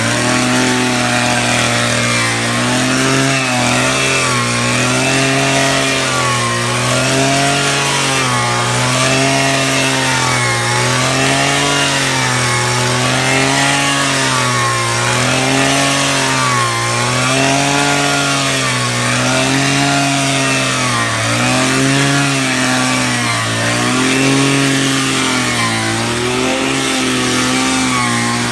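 Power drill motor running continuously under load. Its pitch rises and falls evenly about every two seconds as the load swings.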